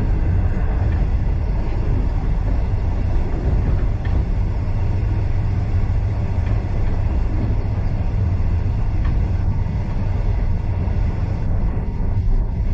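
Steam-hauled heritage passenger train running along the line, heard from aboard the carriage as a steady, even rumble.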